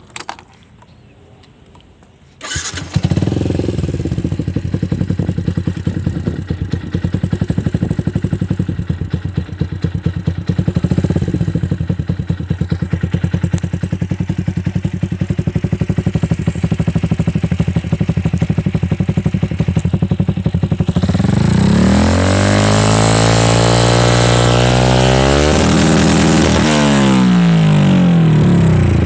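Yamaha New Jupiter MX's single-cylinder four-stroke engine, breathing through an R9 New Mugello racing exhaust with the dB killer fitted. It starts about two and a half seconds in and idles with a steady pulse, then is revved up and down a couple of times near the end before dropping back toward idle.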